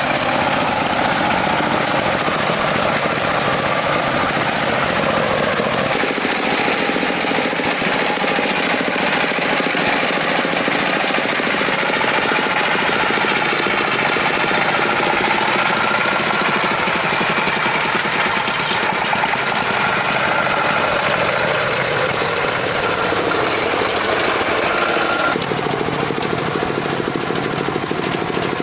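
A farm truck's engine running steadily with a rapid knocking clatter; its note shifts about six seconds in and again near the end.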